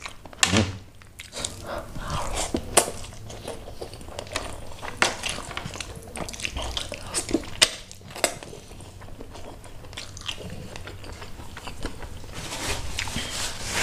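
Close-miked wet chewing of a mouthful of rice and snapper-head gulai curry, with many sharp lip smacks and clicks. Near the end a denser, wetter squishing sound grows louder.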